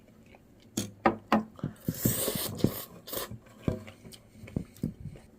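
Rice being served with a spoon: a series of sharp taps and knocks of the spoon on dishware, with a scraping stretch about two seconds in.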